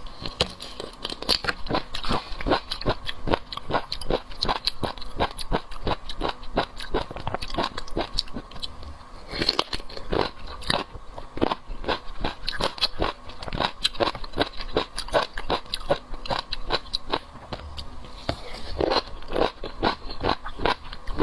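Close-miked eating sounds of someone chewing whole shrimp: a dense, irregular run of wet smacks and crunches, several a second.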